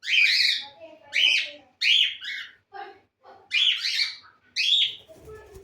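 Cockatiels calling: about five loud, high-pitched calls in quick succession, with a short pause near the middle.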